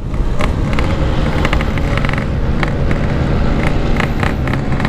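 Yamaha RX-King 135's single-cylinder two-stroke engine running steadily under throttle while riding.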